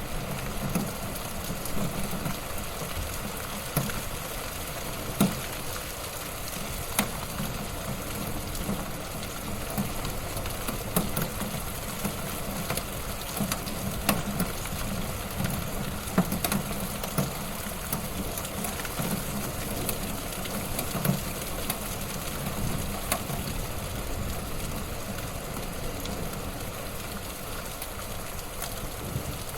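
Wood fire burning in a fireplace: a steady low rush of flames with irregular crackles and pops.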